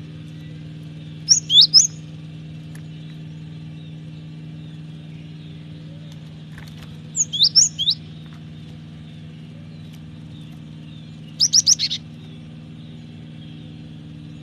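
Cinereous tit (gelatik batu) calling in three short bursts of quick, high, sweeping notes, about five seconds apart, over a steady low hum.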